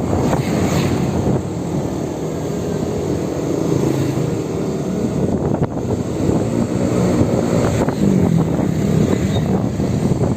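Electric motorbike on the move: wind buffeting the microphone over road rumble, with a faint whine that wavers up and down in pitch.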